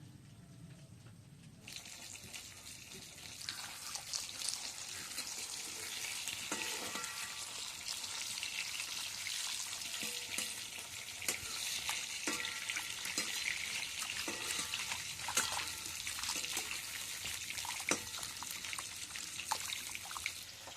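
Fish sizzling as it fries in hot oil in a pan, starting suddenly about two seconds in, with scattered knocks and scrapes of a spatula turning the pieces.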